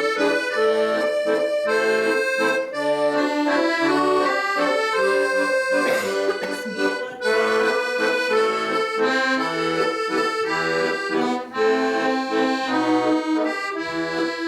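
Accordion playing a waltz: a melody of held notes over separate bass notes, continuing throughout.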